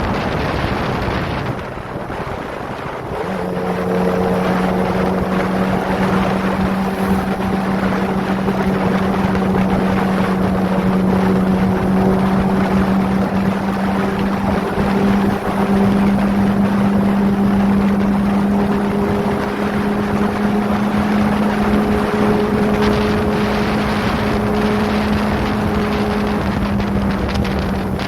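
Kawasaki ZX-25R's 250 cc inline-four engine through a Prospeed aftermarket exhaust, running at a steady cruising pitch, with wind rushing over the microphone. About three seconds in the engine note comes up louder and then holds almost level.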